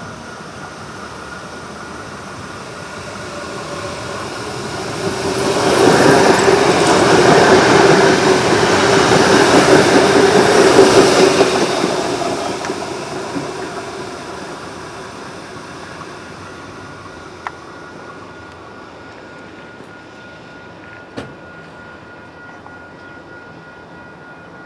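Adelaide Metro 4000-class electric commuter train passing by: its rumble builds over a few seconds, is loudest for about seven seconds with a steady hum running through it, then fades away as the train recedes.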